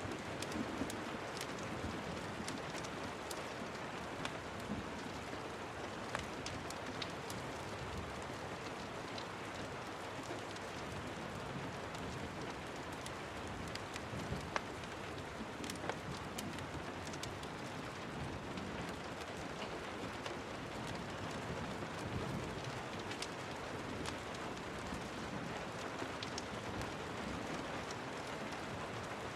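Steady rain with a crackling wood fire: an even hiss of rain, broken by scattered sharp pops and ticks throughout.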